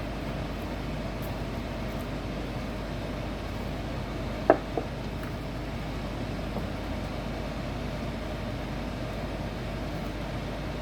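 Steady machine hum, like a running motor or fan, with two quick clicks about four and a half seconds in.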